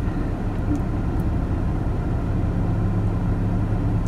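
A vehicle engine idling steadily: a low, even hum that grows a little stronger about halfway through.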